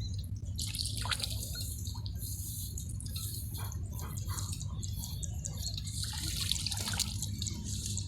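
Shallow water splashing and dripping, with louder splashes about a second in and again around six to seven seconds, over a steady low rumble.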